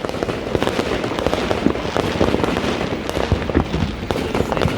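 Fireworks and firecrackers going off: a dense, continuous crackle of many small pops with no break, a few louder cracks standing out.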